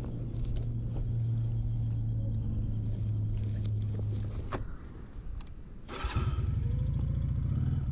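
A steady low engine hum, then a few sharp clicks; about six seconds in a motorcycle engine starts and settles into a low, pulsing idle.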